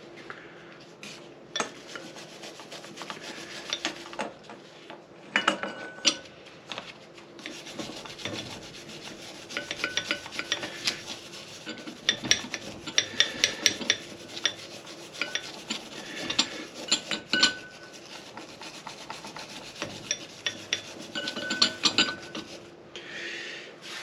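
Rough hand scrubbing and scraping on motorcycle engine parts during cleaning: quick strokes come in bursts, mixed with sharp clicks and light metal clinks.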